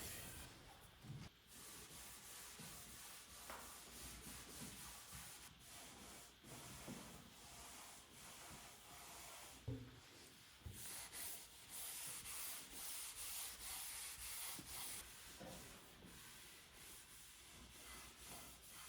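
Faint hand strokes rubbing over a white oak surface, a run of soft hissy swishes that comes thickest in the second half, with a single light knock about ten seconds in.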